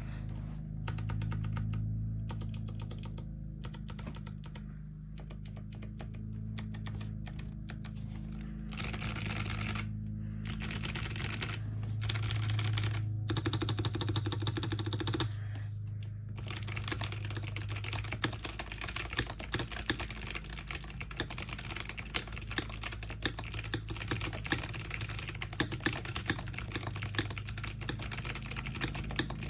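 Typing on a Tokyo60 60% mechanical keyboard with clicky Kailh Box White switches and lubed stock stabilizers. The key clicks come in short bursts with pauses at first, then run as steady fast typing from about 16 seconds in.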